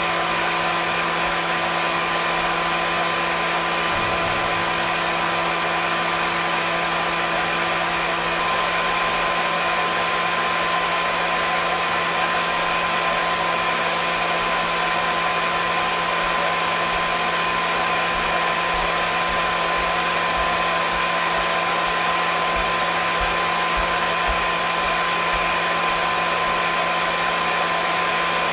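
Hair dryer running steadily: an even rush of air with a constant motor hum and whine.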